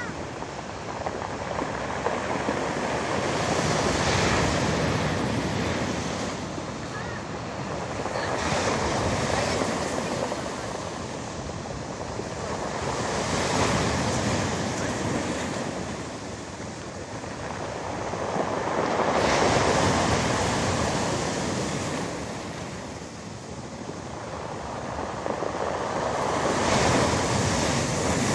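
Storm surf breaking on a pebble beach: a continuous rushing roar that swells and ebbs as each wave comes in, about five big swells, every five seconds or so.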